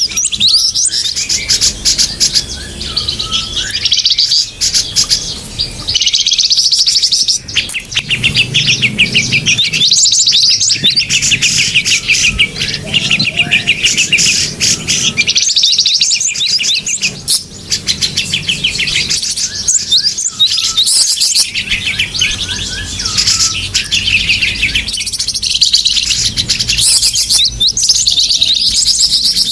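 Many small songbirds chirping and trilling together in a dense, rapid chatter, nearly continuous with brief pauses: a bird-lure call recording made to draw small birds in.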